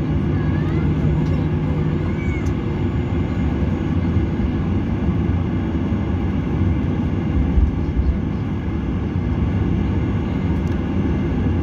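Steady low rumble of engine and air noise inside a passenger airliner cabin in flight, with a brief low bump about seven and a half seconds in.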